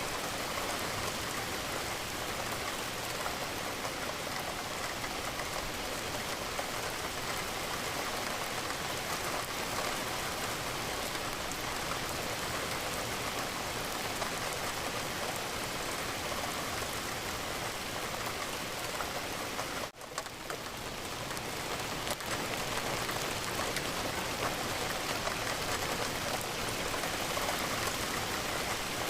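Steady rain falling, a dense, even patter of raindrops. About twenty seconds in it cuts out for a moment, then swells back up.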